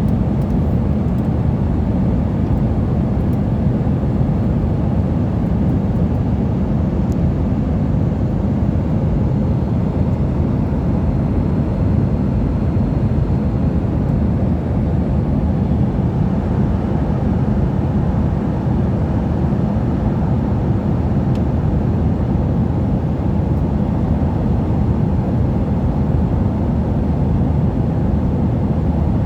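Aircraft cabin noise in flight: a steady, even low rumble of engine and airflow noise heard from inside the plane.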